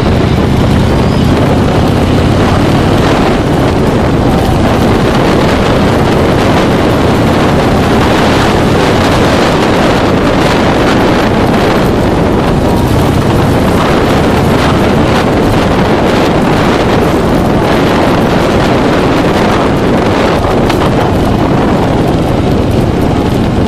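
Motorcycle engine running steadily under heavy wind noise on the microphone, as from a camera on a moving motorcycle.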